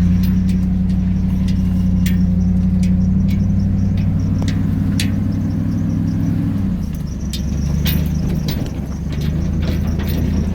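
2001 Chevy 3500 dump truck's engine running steadily under way, dropping in pitch about seven seconds in as it eases off, with many sharp clicks and rattles from the truck.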